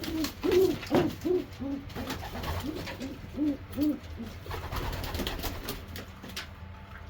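Racing pigeons cooing: a run of short coos, each rising then falling, over the first four seconds, then quieter with a few faint knocks.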